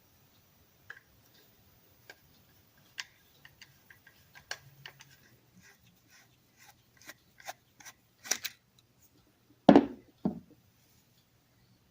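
Clicks and light ticks of small push-drill parts being handled and taken apart, growing more frequent, with two louder knocks close together near the end.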